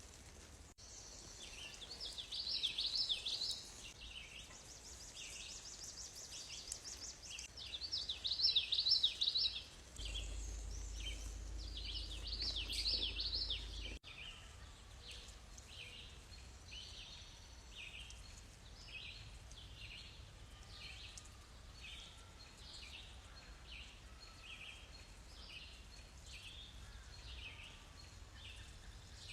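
Songbirds singing outdoors: several bursts of warbling song in the first half, then a steady series of short chirps repeating about once a second. A low steady rumble sits underneath for a few seconds in the middle.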